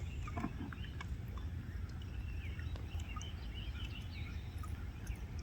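Steady low outdoor rumble, like wind on the microphone, with faint scattered bird chirps and a few light clicks.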